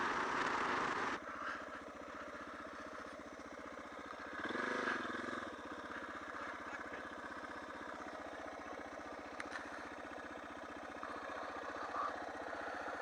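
Suzuki DR650 single-cylinder engine running steadily at low revs, with a brief rise and fall in revs about five seconds in. A loud rushing noise covers the first second and cuts off suddenly.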